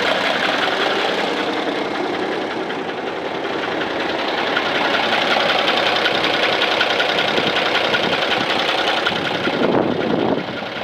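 Diesel engine of a 1989 Kenworth T-600 heavy truck running steadily with an even clatter, easing slightly in loudness around three seconds in and dropping in level just before the end.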